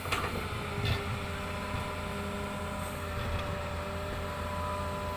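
Hitachi excavator's diesel engine running steadily, a low rumble with a steady whine over it.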